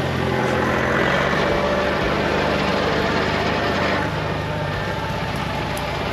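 Tractor engine running steadily under work, a constant low engine hum with a broad mechanical rush, easing slightly about four seconds in.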